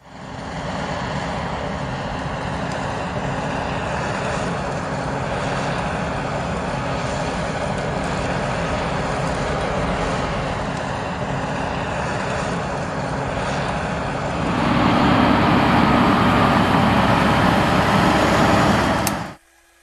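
Large farm tractor's diesel engine running steadily at working speed. It gets louder about three-quarters of the way through, then cuts off abruptly just before the end.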